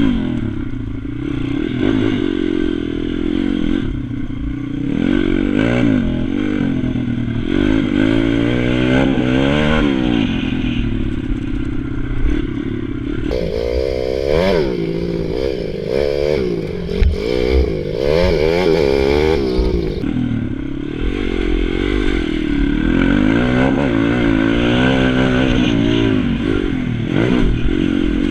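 Pit bike's small single-cylinder engine revving up and down again and again as it is ridden hard around a track, with wind noise on the microphone.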